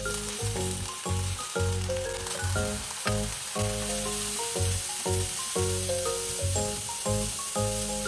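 Diced vegetables (scallion, then onion and carrot) sizzling in olive oil in a hot frying pan as they are stir-fried, the sizzle growing stronger a couple of seconds in. Background music with a steady beat plays throughout.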